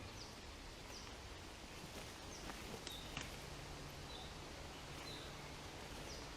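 Faint forest ambience with a small bird repeating short, high, falling chirps about once a second, and a few soft clicks a little before the middle.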